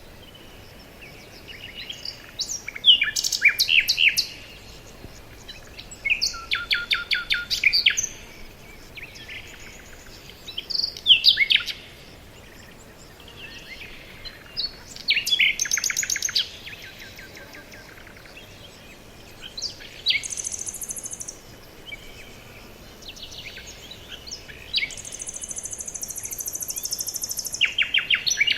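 Several forest songbirds singing in turn, short chirping and whistled phrases coming every few seconds over a faint steady background. A high, thin buzzing trill sounds briefly about two-thirds of the way through and again for a few seconds near the end.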